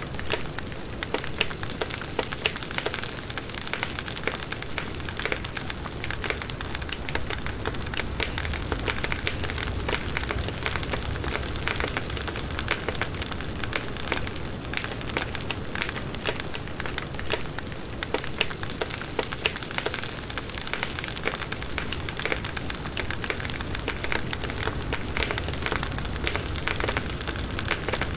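Firewood burning in a campfire: a steady low rush of flames with dense, irregular crackling and popping throughout.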